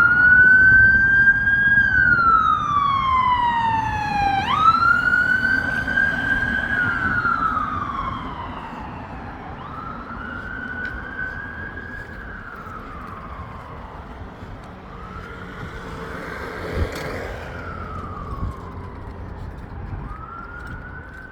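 Ambulance siren wailing, its pitch sliding slowly up and down every four to five seconds, loudest at first and fading as it moves away, over steady road traffic noise. A short knock about three-quarters of the way through.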